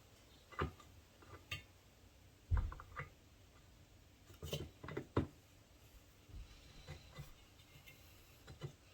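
Scattered light clicks and knocks of metal parts being handled and fitted together during reassembly of a Peerless 206 transaxle, with the loudest knocks about two and a half and five seconds in.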